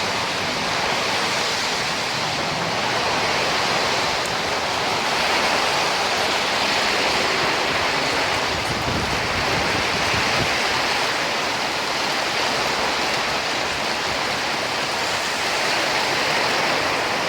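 Heavy rain driven by wind: a steady, even rushing downpour.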